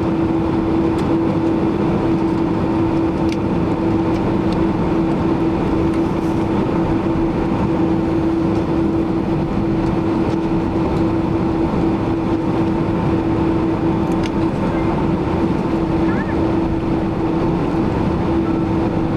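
Cabin noise of a Boeing 767-300ER heard from a seat over the wing: the jet engines drone steadily with a constant humming tone over an even rush, holding level without spooling up or down.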